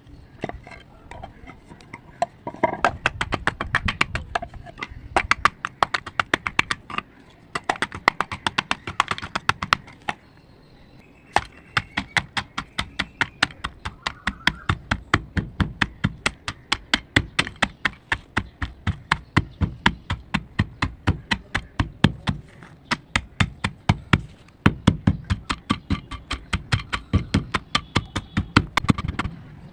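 ASMR crunching: a fast, even run of sharp, crisp clicks, about four or five a second, with a short lull about ten seconds in.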